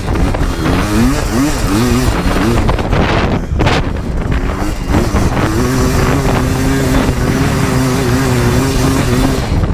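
Yamaha Blaster 200's two-stroke single-cylinder engine revving up and down several times in quick succession, then a few seconds of rushing wind noise, then running at steady revs. Wind buffets the microphone throughout.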